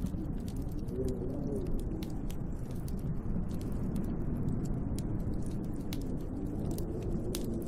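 Snowstorm wind howling outside a window: a steady deep rush with faint wavering moans rising and falling in pitch, dotted with scattered light ticks and clicks.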